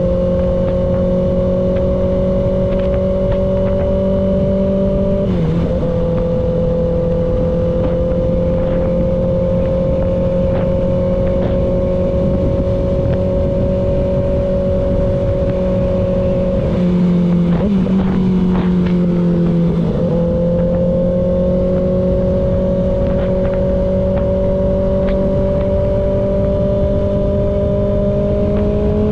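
Kawasaki ZX6R's inline-four engine running at a steady cruise under the rider, with wind rush. The engine note dips briefly about five seconds in, sags and wavers between about seventeen and twenty seconds, then starts to climb near the end.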